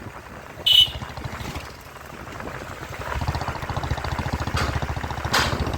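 Motorcycle engine running under way, a pulsing low exhaust note that dips and then picks up again about three seconds in. A brief high-pitched sound cuts in about a second in.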